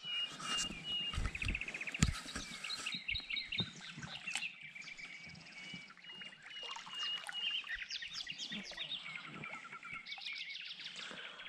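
Several birds singing and calling at once, a mix of chirps, quick trills and repeated short notes, with a few low knocks in the first two seconds.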